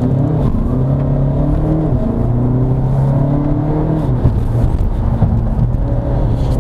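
VW Passat B8 4Motion's turbocharged four-cylinder engine pulling under acceleration, heard from inside the cabin. Its pitch climbs, then drops twice, about two seconds in and again about four seconds in, as the gearbox upshifts.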